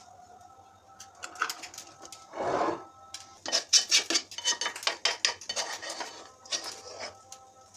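Dishes and utensils handled in a kitchen: a scrape, then a run of quick clinks and knocks for a few seconds.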